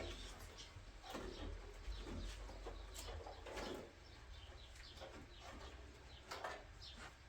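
Faint bird calls, with light clicks and knocks scattered throughout.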